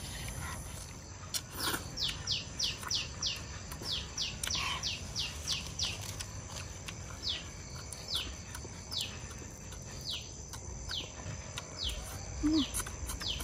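A bird calling: a string of short, sharp notes, each falling in pitch. They come about three a second at first, then slow to about one a second, over a steady high insect drone.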